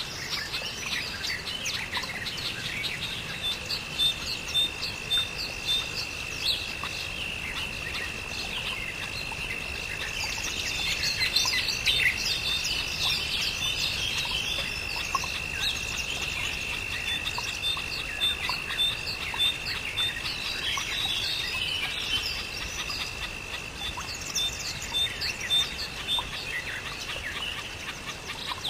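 Birds chirping and calling over a steady high-pitched tone, with a faint, regular, quick pipping.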